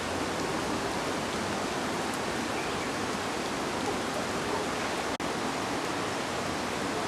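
Steady rushing water, an even hiss with no let-up, dipping for an instant about five seconds in.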